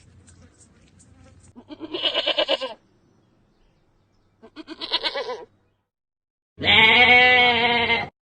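Goat bleating three times: two short quavering bleats, then a longer, louder bleat near the end.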